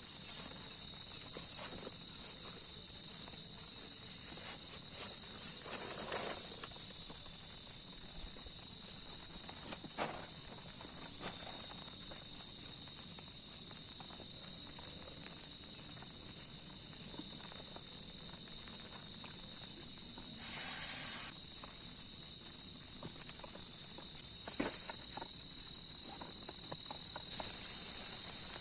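A steady, high-pitched insect chorus that holds one unbroken tone throughout. A few soft knocks and rustles of movement close by sound over it, with a brief rustle about twenty seconds in.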